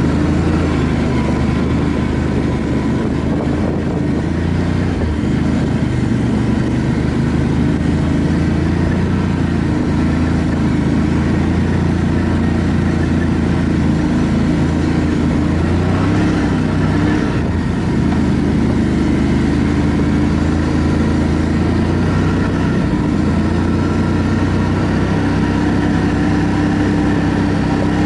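ATV engine running steadily under way, its pitch dipping and climbing again with the throttle a little past halfway.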